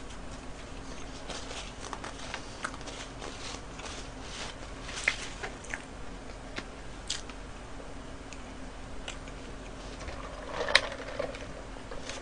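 Faint close-up chewing and mouth sounds with scattered soft clicks over a low steady hum, and a slightly louder click and rustle near the end.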